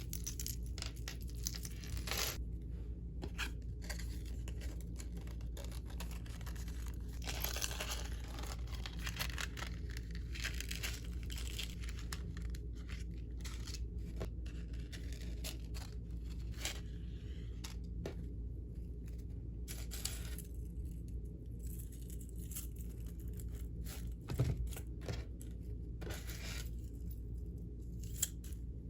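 Hands handling and tearing packaging material while packing a small order: irregular tearing and crinkling with scattered light clicks and taps, over a steady low hum.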